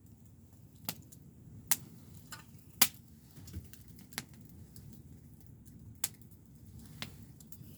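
Campfire crackling: about eight sharp pops of burning wood at irregular intervals, the loudest about three seconds in, over a steady low rumble.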